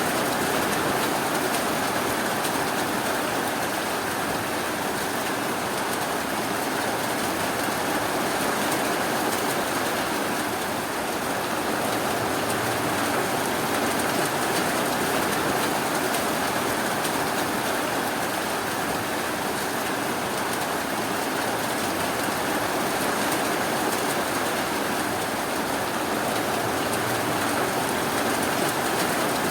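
Steady rainfall, an even, unbroken hiss of rain with no thunder or other events.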